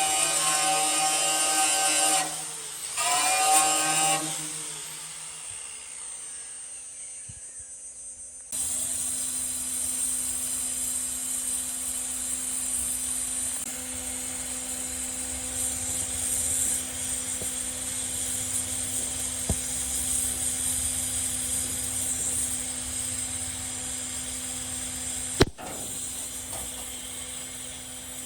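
Power tools at work: a motor whine shifts in pitch and winds down in the first few seconds. After an abrupt change it gives way to a steady running hum with hiss, and a single sharp click comes near the end.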